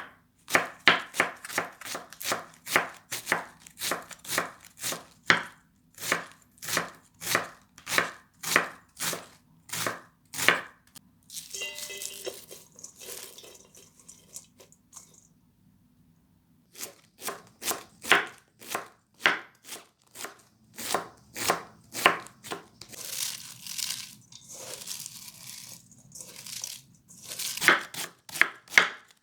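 Knife chopping vegetables on a cutting board in a steady rhythm of about two chops a second. The chopping pauses for a few seconds in the middle, with some rustling and a brief silence, then starts again.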